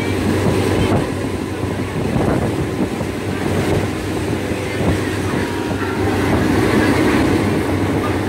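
Passenger train running along the rails, heard from inside a carriage with the window open: a steady, loud rumble of the wheels and carriage.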